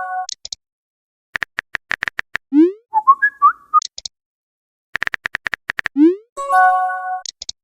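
Looped cartoonish electronic sound effects, of the kind used for on-screen typing and message alerts in a chat app: a run of quick clicks, a rising whistle-like slide, a short held chord or warbling blips, and high chirps. The sequence repeats about every three and a half seconds.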